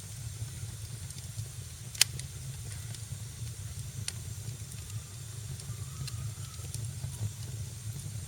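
Wood fire crackling in a fireplace: a steady low roar and hiss of the flames with scattered small snaps, and one loud sharp pop about two seconds in.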